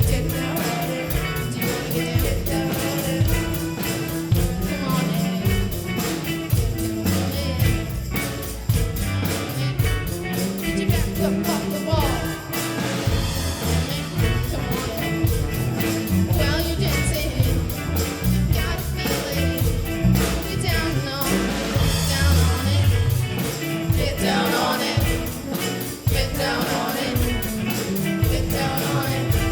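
Live rock band playing a funk-pop dance groove, with the drum kit keeping a steady beat under bass and other instruments.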